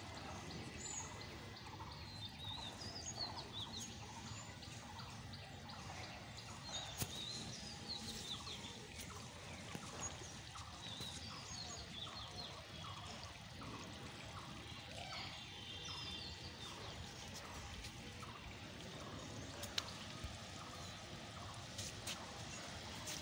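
Faint ambience of birds chirping on and off over a steady low background hiss, with a few soft clicks.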